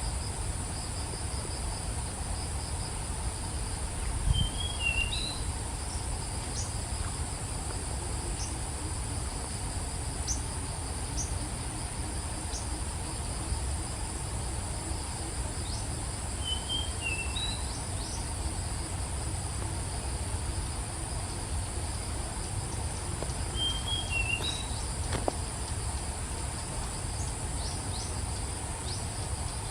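Steady high-pitched insect chorus of crickets, with a bird repeating the same short chirped phrase three times about seven seconds apart and a few scattered brief high calls. A low thump about four seconds in.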